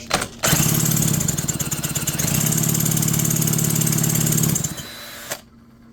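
McCulloch 5-10E chainsaw engine being spun over for about four seconds without firing, a fast, even mechanical chatter that cuts off near the end. It turns over easily with little compression, because its decompression valve is wide open.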